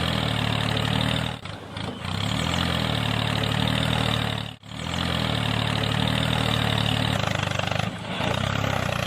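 An engine running steadily at a low, even idle-like pitch. It drops out briefly about a second and a half in, cuts off for an instant about halfway, and dips again near the end.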